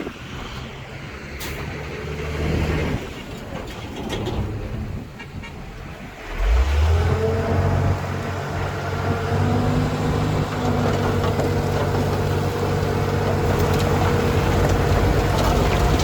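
Heavy diesel engine of earthmoving machinery running, uneven at first. About six seconds in it suddenly gets louder and settles into a steady deep drone with a held higher tone above it.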